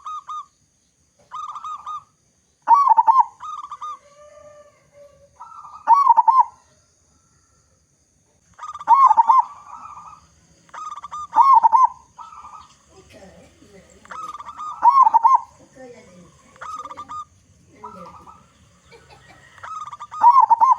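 Zebra dove (perkutut) cooing: short phrases of coos repeated every two to three seconds, some loud and some softer.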